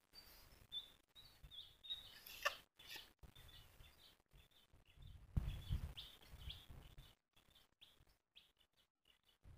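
Small birds chirping faintly in short, high calls repeated again and again. A few low rumbles hit the microphone, the loudest about five seconds in.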